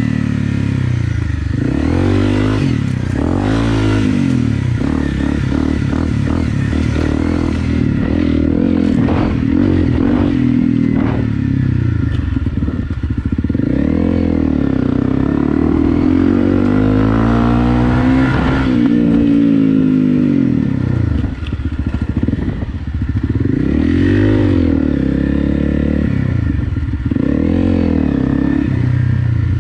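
Honda CRF250 Rally's single-cylinder engine being ridden, repeatedly revving up and dropping back, the pitch rising and falling every couple of seconds.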